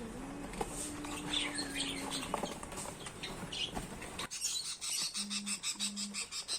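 Faint chirping of caged birds over a low background hum. About four seconds in, the sound changes abruptly to a quick, regular ticking, with two short low tones near the end.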